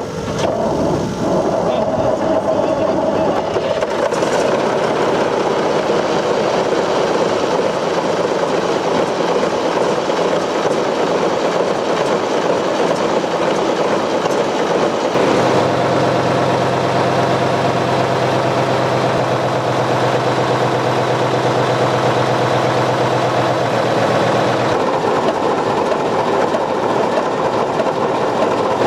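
Paxman V12YHA 60-litre V12 diesel engine running steadily. A deeper steady note joins about halfway through and drops away again some nine seconds later.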